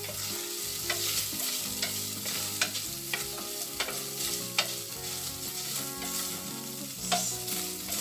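Shredded chicken sizzling as it is sautéed in oil in a stainless steel stockpot. A wooden spatula stirs it, scraping and knocking against the pot in irregular sharp knocks about once a second.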